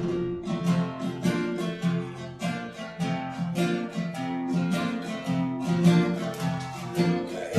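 Acoustic guitar strummed in a steady rhythm as the song's introduction, with chords ringing between the strokes.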